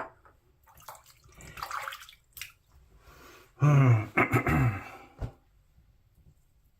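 Wet-shaving sounds: a Merkur 34C safety razor scraping through lather, with faint water splashing and a few light clicks. About four seconds in comes a short wordless vocal sound from the shaver, the loudest thing heard.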